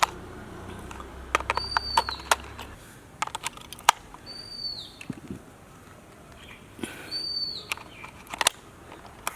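Scattered plastic clicks and knocks as batteries are fitted into a battery-powered toy car. A short, high, falling chirp comes three times at even intervals.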